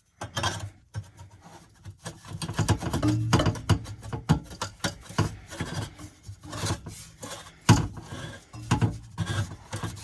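Irregular scraping and sharp knocks of cut pieces of exhaust pipe being handled and fitted together by hand.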